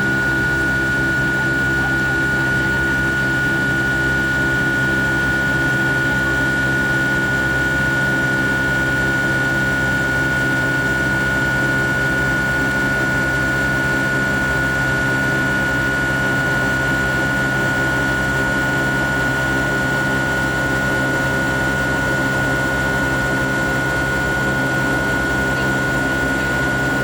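Rolls-Royce RB211 turbofan engine of a Boeing 757-200 heard from inside the passenger cabin: a steady drone with a steady high-pitched whine.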